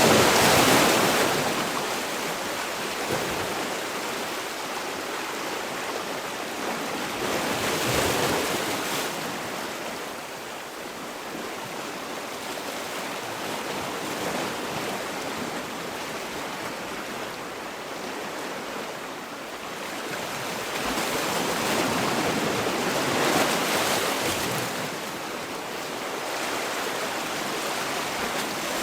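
Sea waves washing onto a shore, the surf swelling and ebbing: a loud surge at the start, another around eight seconds in, and a longer one past twenty seconds.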